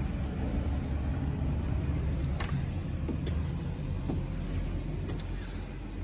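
Steady low rumble with a few light knocks and clicks, from someone climbing into a truck's cab.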